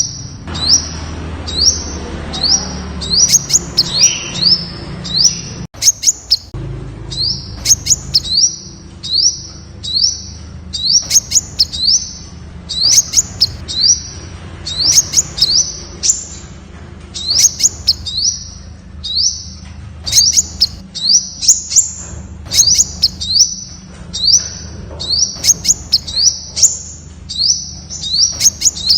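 Temminck's sunbird calling: a long run of short, high, upward-sweeping chirps, about two a second, with sharp clicks among them.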